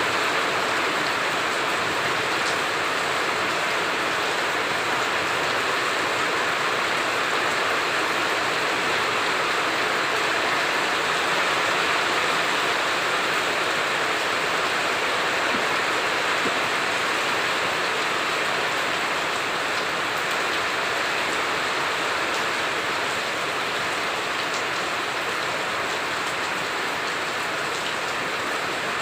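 Heavy rain falling steadily: a dense, even hiss of rain on surfaces with faint ticks of individual drops.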